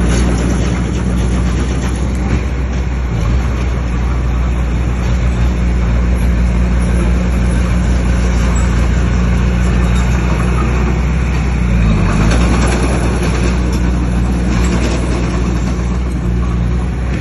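Bulldozer's diesel engine running steadily under load, with a brief dip in pitch about twelve seconds in before it picks up again.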